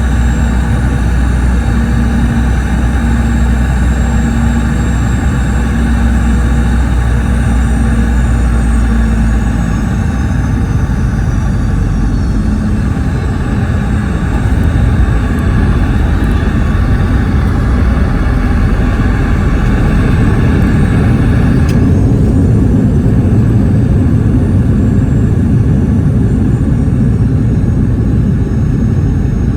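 Boeing 717 cabin noise near the rear-mounted Rolls-Royce BR715 turbofans: a steady low rumble with engine whine. The whine sinks in pitch about a third of the way through, then changes abruptly and rises again about two-thirds of the way through as the engines spool up.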